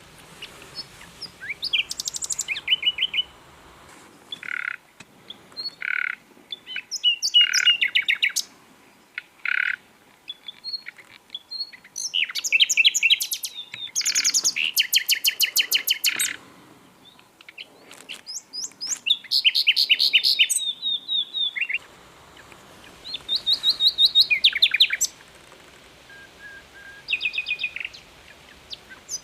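Common nightingale singing: a run of separate phrases built from fast-repeated notes and trills, with short pauses between them.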